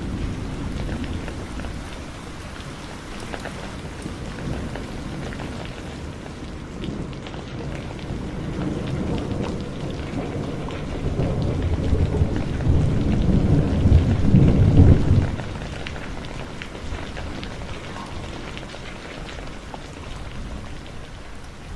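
Heavy rain falling steadily, with scattered drops striking close by. A deep roll of thunder builds from about halfway through and peaks before cutting off fairly suddenly.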